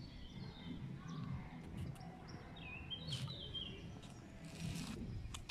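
Small birds chirping in short twittering phrases, strongest around the middle, over a steady low outdoor rumble, with a brief hiss near the end.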